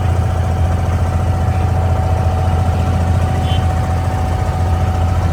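Diesel engine of a Dubai Creek abra (wooden water taxi) running steadily, a deep hum with a thin steady whine above it.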